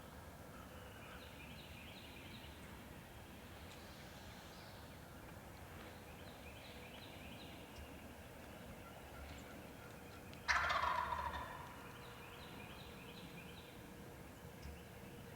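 Wild turkey gobbling: several faint, distant gobbles, then one much louder, closer gobble about ten seconds in that rattles and fades over about a second.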